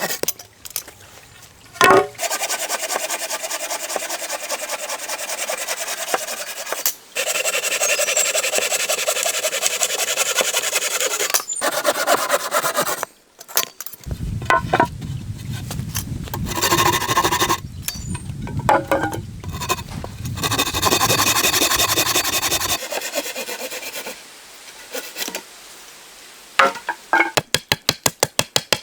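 Hand saw cutting through wood with a steady rasping sound, in several long runs of strokes broken by short pauses. A quick series of sharp clicks or taps comes near the end.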